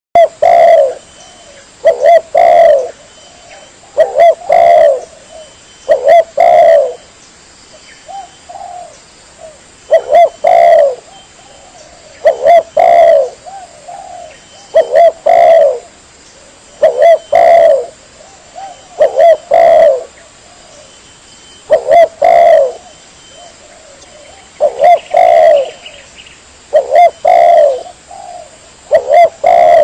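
Spotted dove (tekukur) cooing: loud, repeated phrases of two or three low coos, one phrase about every two seconds. It is a lure call used to draw wild doves in.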